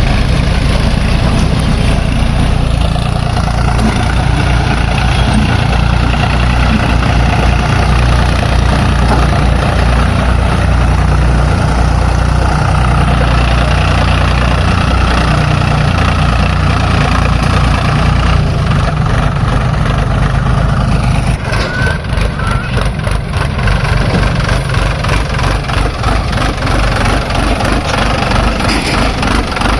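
Diesel engines of a JCB 3DX backhoe loader and a Sonalika tractor running at work, a loud, steady low drone. About two-thirds of the way through it changes to an even, pulsing chug like a diesel at idle.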